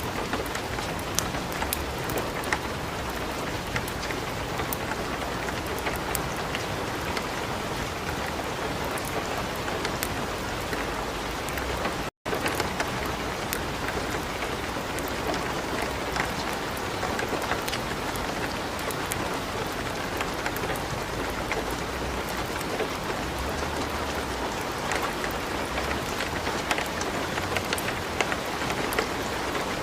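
Steady light rain falling on a surface, with many scattered sharp ticks and crackles from drops and a wood fire burning in a fireplace. The sound cuts out completely for an instant about twelve seconds in.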